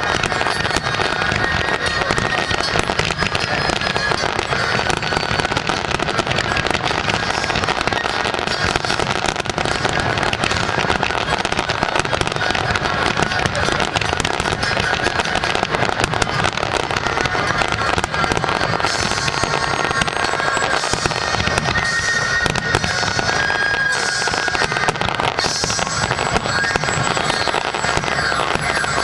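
Aerial fireworks display going off continuously, a dense run of bangs and crackling with no let-up, busier in the crackle over the last third. Music plays faintly underneath.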